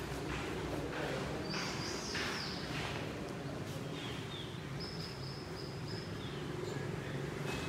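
Birds chirping and whistling over steady outdoor background noise, with one high whistled note held for about a second past the middle.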